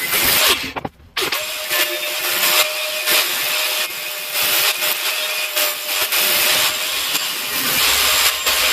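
A power tool running with a steady, noisy, crackly sound, broken by a short gap about a second in.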